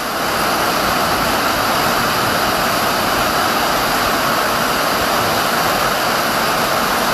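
Very heavy rain falling steadily: the even, loud hiss of a downpour.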